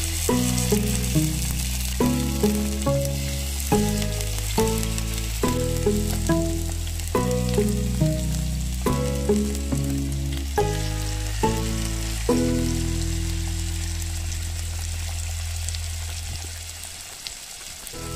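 Chicken chops frying skin-side down in hot oil in a cast-iron skillet, with a steady sizzle. Background music with a plucked melody and bass plays over it, then fades out near the end.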